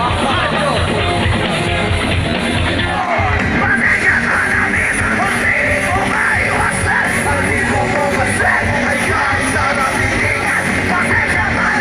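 Live rock band playing loud, with a singer yelling over the band. The sound shifts abruptly about three seconds in.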